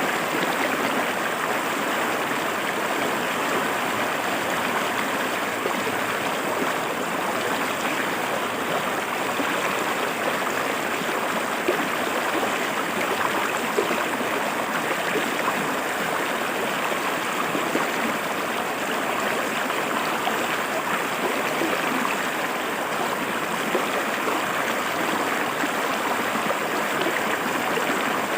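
River water running over rocks, a steady rushing and burbling that never lets up.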